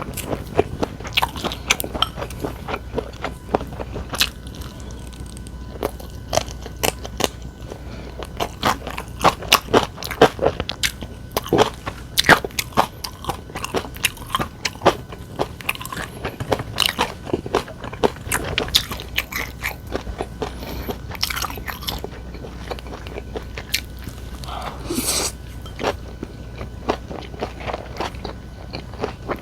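Close-miked eating sounds: a person chewing and biting food, with many short, crisp crunches.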